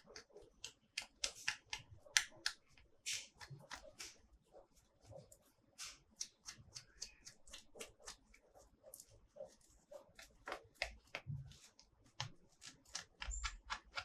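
Hands handling plastic toys and their packaging: irregular light clicks, taps and rustles, several a second.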